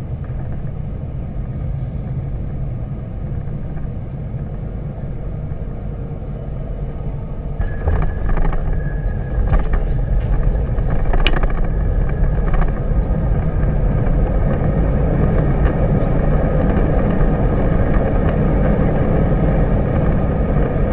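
An airliner's jet engines and runway rumble: a steady low rumble that grows louder about eight seconds in, with several short knocks and one sharp click, then carries on evenly.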